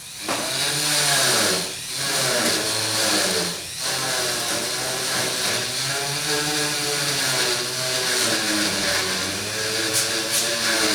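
Dremel rotary tool with a small tip grinding rust out of a pit in the car's sheet metal. Its whine rises and falls in pitch as it bears on the metal, and it eases off briefly twice in the first four seconds.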